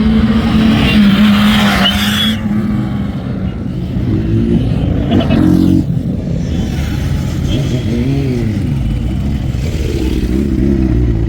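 Heavy motorcycle engines running and revving up and down, with a loud hiss of tyre skid noise over the first two seconds or so.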